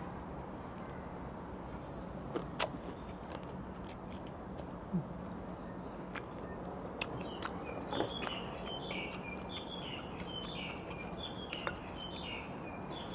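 A bird singing a rapid series of short, falling chirps from about halfway through, over steady outdoor background noise. A few sharp clicks and taps of food handling and eating stand out, the loudest about two and a half seconds and eight seconds in.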